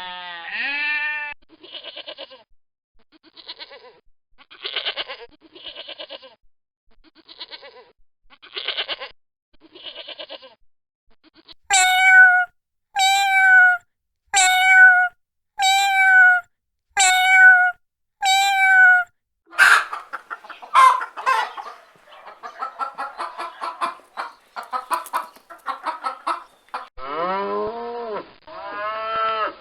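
Animal calls from several species in turn. A goat's bleat comes first, then a run of short buzzy calls about once a second. After that, seven evenly spaced calls, each with a falling tail, then a stretch of chattering calls, and finally longer bleat-like calls near the end.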